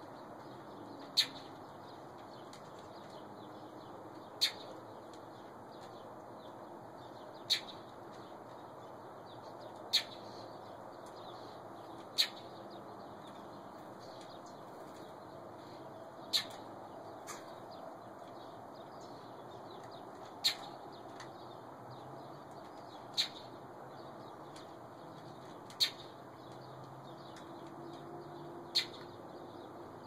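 A bird repeating a single short, sharp chirp about every two to four seconds, some ten times.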